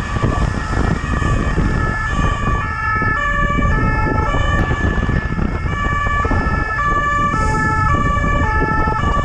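Police siren wailing in a two-tone pattern, its pitch stepping back and forth every fraction of a second, over a heavy low rumble of road and engine noise.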